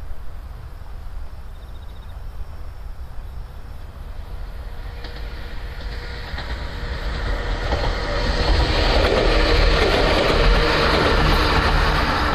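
Sangi Railway 101-series electric train approaching and passing close by, its wheels clattering over the rail joints. The sound grows louder from about halfway through and is loudest near the end.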